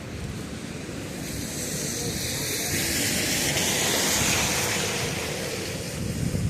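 Hiss of a vehicle passing on wet pavement, swelling from about a second in, loudest in the middle, then fading, over steady rain.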